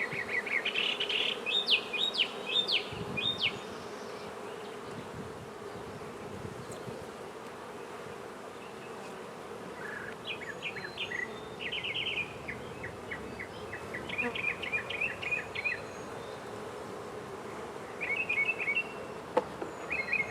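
Honey bees from an open hive of a freshly hived swarm humming steadily. A bird sings several bursts of rapid, trilled notes over the hum.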